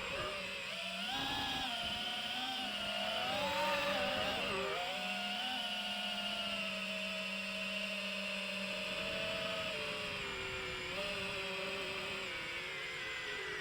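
DJI FPV drone's electric motors and propellers whining in flight. The pitch rises and falls with the throttle for the first few seconds, then holds fairly steady.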